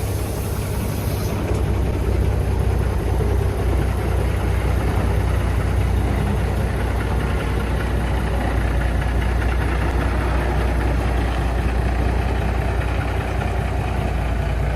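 A heavy engine running steadily, a deep even rumble with no revving.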